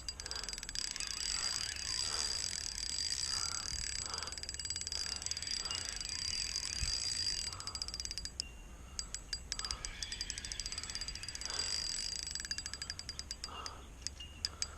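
Fishing reel ticking while a hooked flathead is played in toward a kayak, with a rapid run of ticks in the second half over a steady high-pitched hum.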